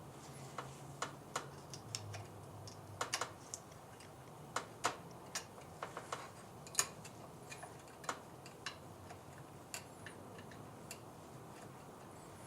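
Irregular small clicks and taps of a C-clip and metal distributor parts being handled while the clip is fitted to the top of a GM HEI distributor shaft.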